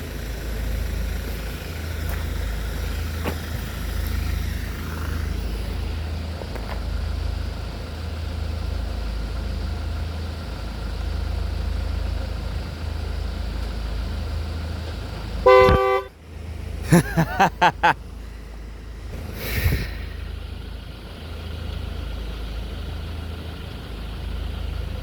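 A horn sounds one short blast, then four quick toots a second or so later, over a steady low rumble.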